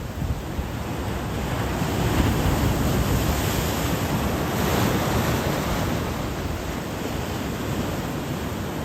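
Sea waves breaking on a sandy beach, the surf swelling about two seconds in and easing after about six, with wind on the microphone.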